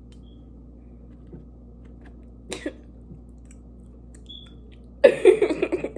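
Faint mouth and eating noises over a steady low hum, then a loud short burst of a person's voice, like a cough or throat clearing, about five seconds in.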